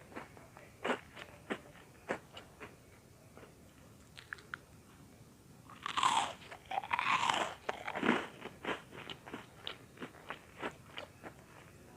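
Close-up crunching and chewing of butter-toasted bread cubes ('bread popcorn'): a run of small, crisp crunches, with a louder, denser bout of crunching about halfway through.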